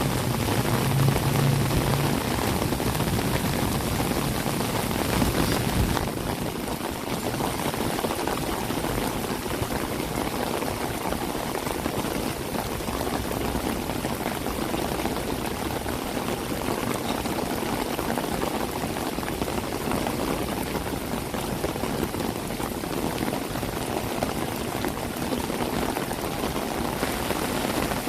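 Steady rain falling and splashing on hard surfaces, with a low rumble in the first six seconds that fades away.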